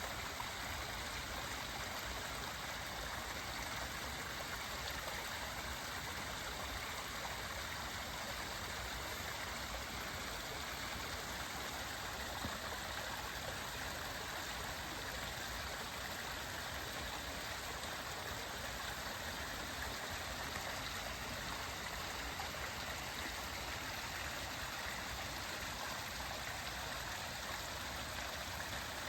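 Mountain stream running steadily over rocks, an even rushing of water.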